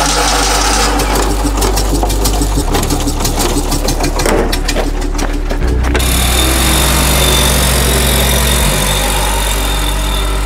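Fiat 126p's air-cooled two-cylinder engine running with a rapid clattering beat as the car moves off, its sound turning smoother about six seconds in. Background music plays underneath.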